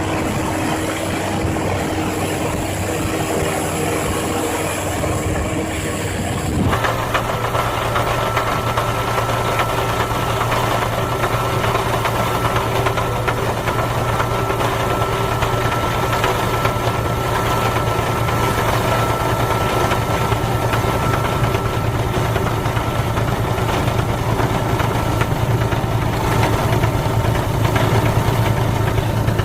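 Heavy snow-clearing machinery engine running steadily. About seven seconds in it cuts abruptly to a different engine with a deeper hum and a thin whine over it.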